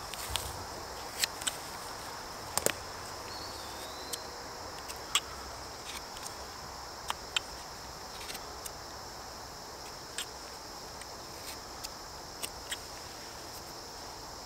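Steady high-pitched insect chorus, with scattered sharp ticks and clicks every second or so.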